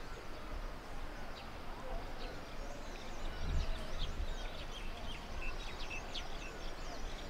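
Steady room ambience with many faint, short bird chirps from outside scattered throughout, and a soft low bump about halfway through.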